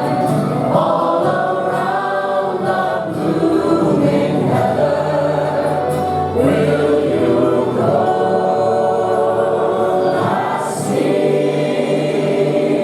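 A group of voices singing together in chorus, with long held notes.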